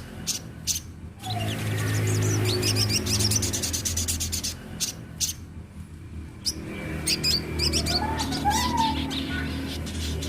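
Young sogon sunbird singing vigorously: bursts of rapid, high-pitched twittering and trills broken by short pauses, over a steady low hum.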